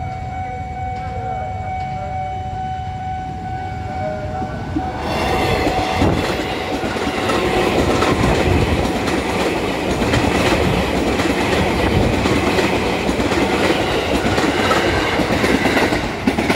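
A KRL electric commuter train passes close by: the rushing noise of the cars and the clatter of the wheels over the rails. The sound grows loud about five seconds in and holds until the last car clears near the end.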